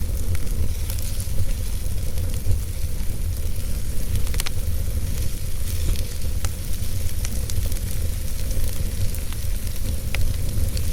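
Wood fire burning in a fireplace: a steady low rumble and hiss of flames, with sharp crackles and pops, the clearest about four and a half, six and a half and ten seconds in.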